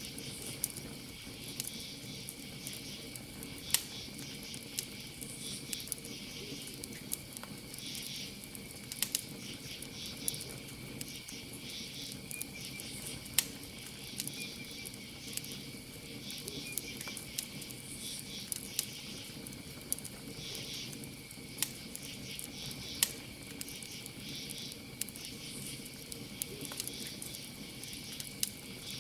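Campfire crackling, with irregular sharp pops every second or so and bursts of hiss, over a steady high chirring of crickets.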